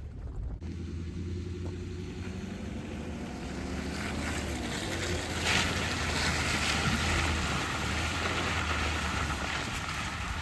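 Four-wheel-drive truck engine running while driving off-road, a steady low drone with engine and tyre noise swelling about five and a half seconds in, when a steady whine also comes in.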